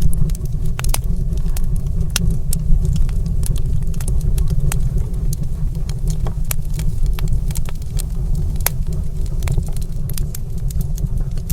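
Fire crackling in a stone fireplace: scattered sharp pops and snaps over a steady low rumble.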